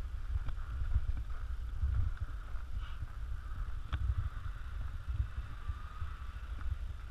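Steady low rumbling noise, buffeting unevenly, with a faint higher hum above it and a single sharp click about four seconds in.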